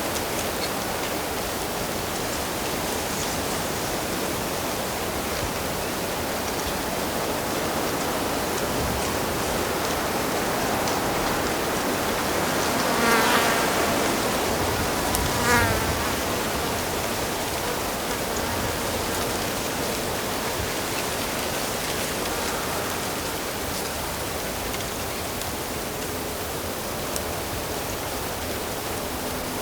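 Steady rushing of flowing water from a stream or waterfall. About halfway through, a fly buzzes close past twice, the second pass shorter than the first.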